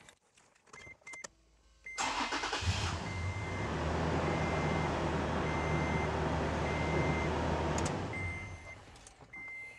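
Toyota FJ Cruiser's 4.0-litre V6 starting about two seconds in, running steadily for about six seconds, then shut off and winding down. Under it a chime beeps about once a second throughout.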